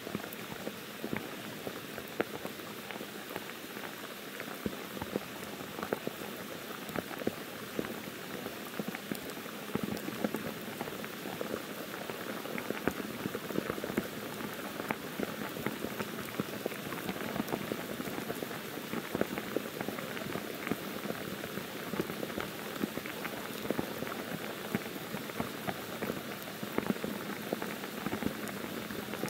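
Steady monsoon rain falling on forest leaves, with many separate drops pattering through a constant hiss. The rain grows a little heavier about a third of the way in.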